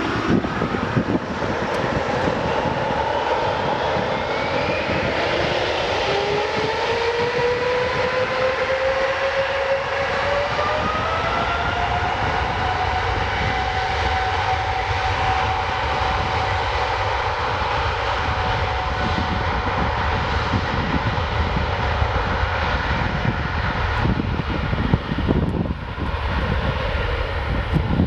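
Boeing 777-300ER's GE90-115B turbofans spooling up to takeoff power: a whine that rises for several seconds, then holds steady over a heavy low rumble.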